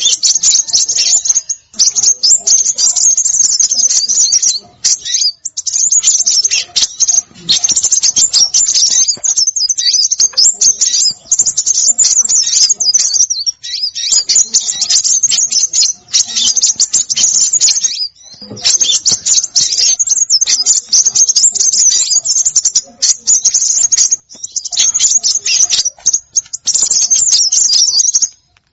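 Recorded lure calls of small songbirds: dense, fast, high-pitched chattering chirps in runs of a few seconds, broken by brief pauses.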